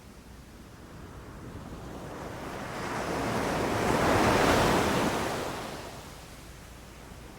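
Ocean waves breaking on a beach: one wave swells up, peaks about four seconds in and washes back out, over a steady low rumble of surf.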